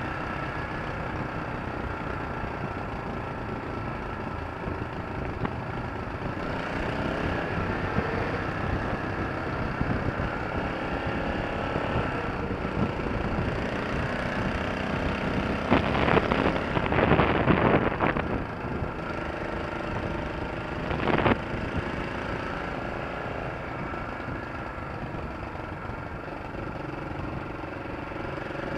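An engine running steadily. A little past halfway there are about two seconds of louder, rough knocking noise, and a few seconds later one short loud burst.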